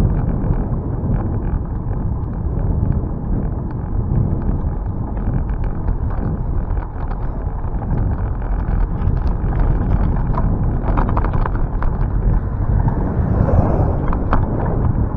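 Wind buffeting the microphone during a bicycle ride, a loud, steady rumble with scattered small clicks and rattles, more of them in the second half.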